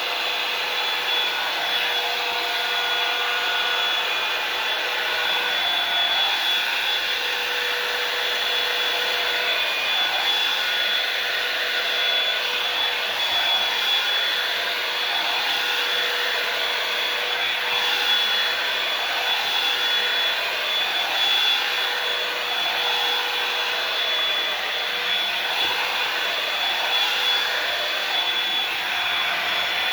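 Hair dryer running steadily, a continuous blowing noise with a high motor whine.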